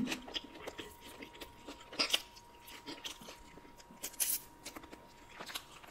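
Close-miked chewing of a mouthful of fried fish taco: soft wet mouth clicks and light crunches, the clearest about 2 and 4 seconds in.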